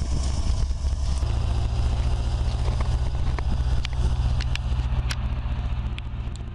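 Heavy truck engine running steadily under load, its pitch stepping up about a second in, with scattered clicks and knocks and the sound easing off toward the end.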